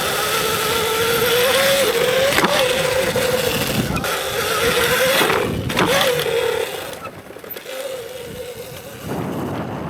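Electric dirt bike's motor whining at a fairly steady pitch over loud rushing noise. The whine fades about seven seconds in.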